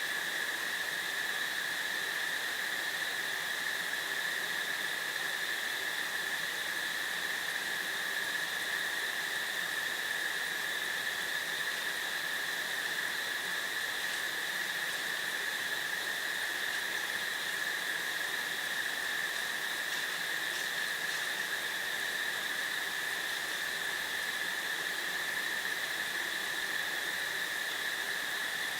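Crickets chirping in a continuous, unbroken chorus, a steady high-pitched drone that does not change.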